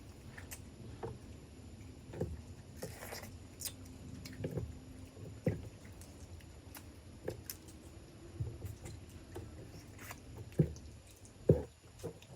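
Close-up eating sounds of a meal of mud crab: irregular small wet clicks, smacks and soft crunches of chewing, with two louder snaps near the end.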